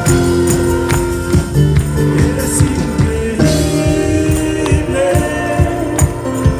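Live church band music with held chords and a steady beat.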